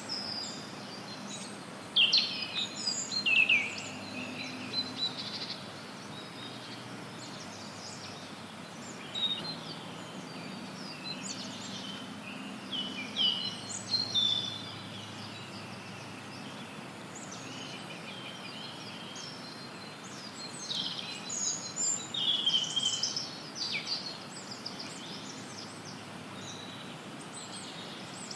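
Songbirds singing short, quick high phrases in several spells, over a steady, even hiss of added white noise.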